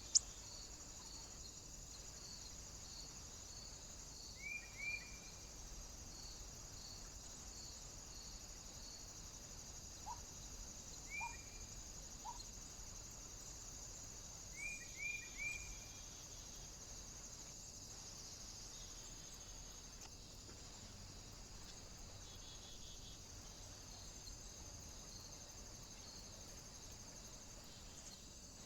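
Small birds calling at a bird feeder: groups of two or three short chirps every few seconds, faint repeated high notes in the first few seconds, over a steady high-pitched hiss. A sharp click right at the start.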